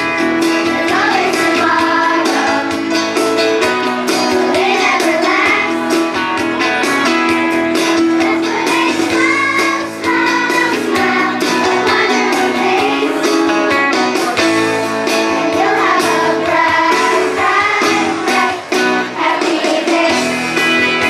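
Children's chorus singing with guitar accompaniment.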